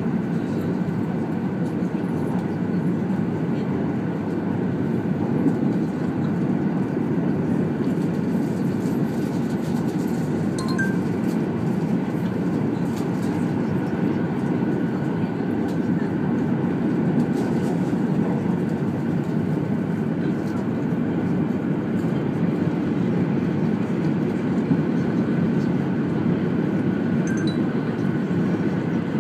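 Steady running noise of a 200 Series Shinkansen at speed, heard inside the passenger cabin: an even rumble of wheels on rail with a few faint ticks.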